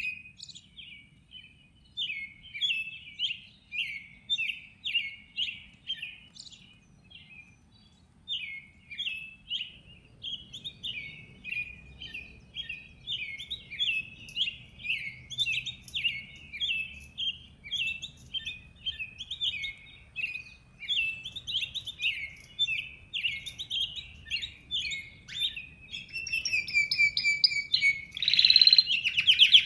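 Birdsong: a run of short, quick chirps repeated a few times a second, breaking off briefly about seven seconds in. Near the end a louder, harsher call comes in.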